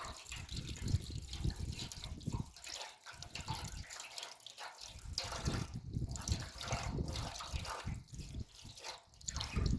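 Water trickling and splashing unevenly.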